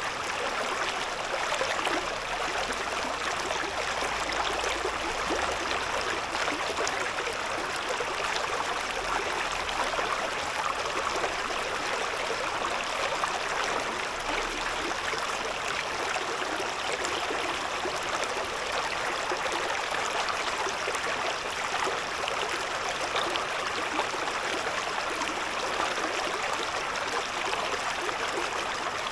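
A shallow river babbling and gurgling over stones, a steady rush of water with fine splashing flicker and no breaks.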